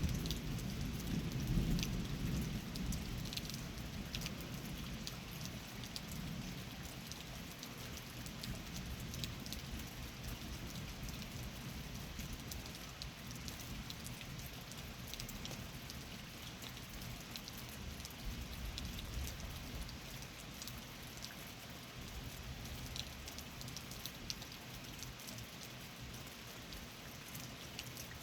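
Steady rain falling during a thunderstorm, with the last of a low thunder rumble dying away over the first few seconds. Scattered sharp drip ticks sound throughout.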